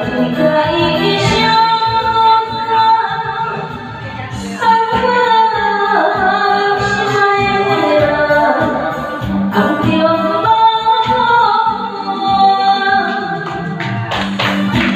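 A woman singing a slow ballad over backing music, holding long notes with vibrato. Quick percussive strokes come in near the end.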